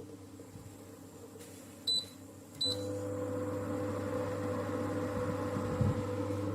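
Philips HU2716/10 evaporative humidifier's control panel beeping twice, then its fan starting up and running with a steady hum.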